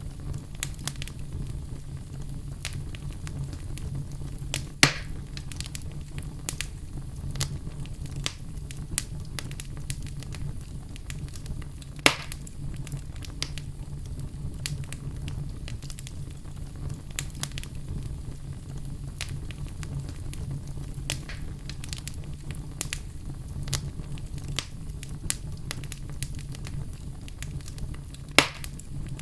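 Fire burning in a fireplace, with a steady low rumble and frequent small crackles. Three louder pops stand out: about five seconds in, about twelve seconds in, and near the end.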